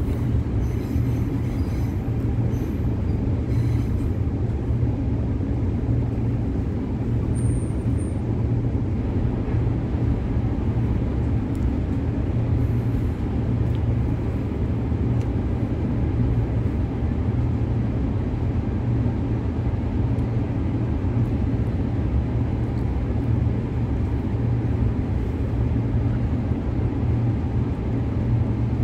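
Steady low rumble of a Transperth B-series electric multiple unit running slowly along the track, heard from inside the carriage.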